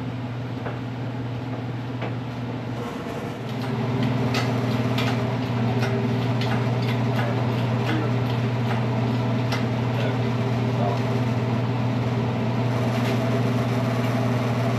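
A steady machine hum, which gets louder about three and a half seconds in, with scattered light metallic clicks and clinks of hand tools over the middle of the stretch.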